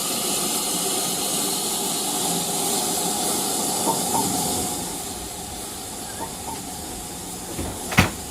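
Model steam train running on the layout: a steady hiss with pairs of faint clicks as the wheels cross rail joints. The hiss drops about five seconds in, and there is one sharp click near the end.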